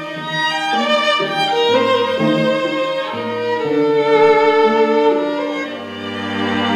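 Violin playing a melody over a lower bowed-string line, with a long held low note entering near the end.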